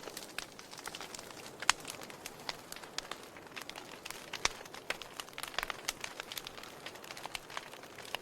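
Wood fire crackling: irregular sharp pops and snaps over a soft hiss, the loudest pops about one and a half and four and a half seconds in.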